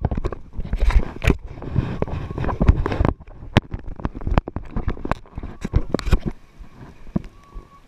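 Firecrackers going off in a quick irregular string of sharp pops over a low rumble, dense for the first few seconds and then thinning out to scattered cracks before dying away.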